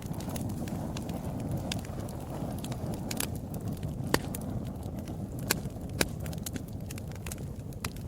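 Wood fire burning in a fireplace: a steady low rumble of flames with sharp crackles and pops scattered through it, the loudest a few seconds in.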